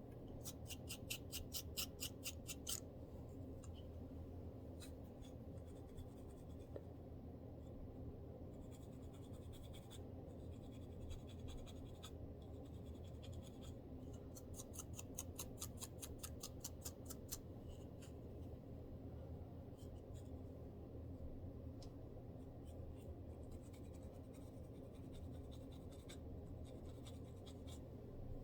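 Close-up scratching of a dandruff-flaked scalp: quick rapid strokes, about eight a second, in a spell near the start and another about halfway through, with fainter scattered scratches between. A steady low hum lies underneath.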